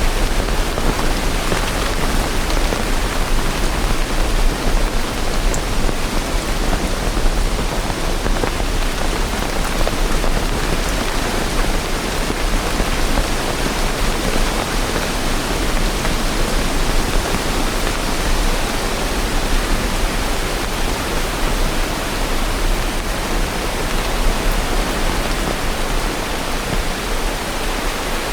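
Steady rain falling, a dense even hiss of drops with a constant low rumble underneath.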